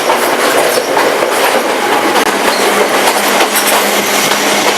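Steady running noise of a moving passenger train heard from inside a coach: the wheels rumbling and rattling over the rails.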